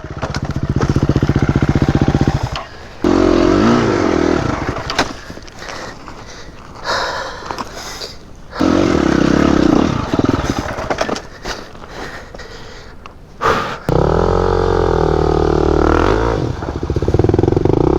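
Dirt bike engines revving and labouring over rough ground, the pitch climbing and dropping with the throttle, in several short stretches that cut off suddenly from one to the next.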